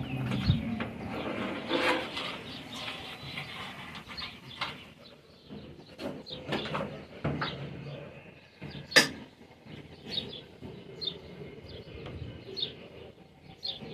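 Birds chirping repeatedly in short high notes, with scattered clicks and knocks; one sharp knock about nine seconds in.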